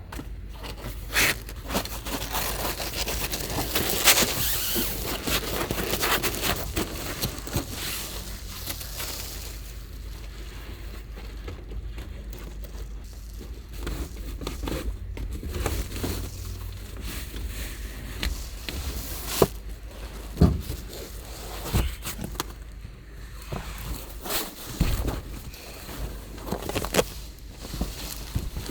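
Heavy rain and gusting wind beating on the roof and body of a Subaru Sambar kei van, heard from inside the cabin. The rain swells in a gust in the first several seconds, with scattered sharp knocks and rustles throughout.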